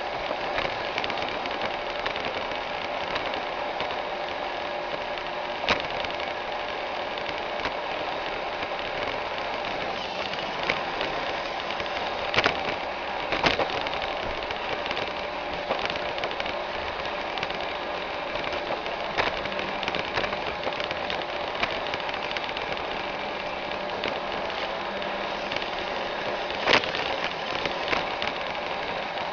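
iRobot Roomba 610 robot vacuum running, a steady whir of its motor and brushes, with a few sharp knocks scattered through.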